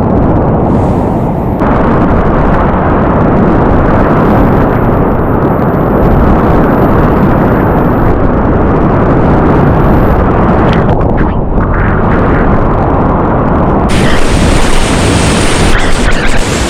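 Whitewater rapids rushing loudly, a steady heavy roar of river water that gets brighter and hissier about fourteen seconds in.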